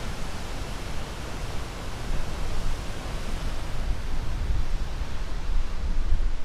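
Ocean surf: a steady wash of waves with a deep low rumble, swelling louder in the second half.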